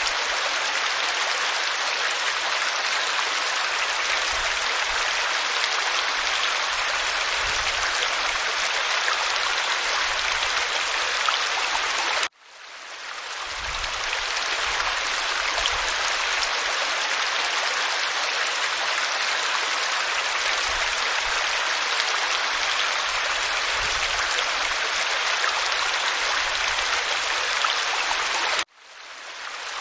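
Waterfall falling onto rock: a steady, even rush of water with a bright hiss. It cuts out abruptly twice, about twelve seconds in and near the end, and each time fades back up over a second or two.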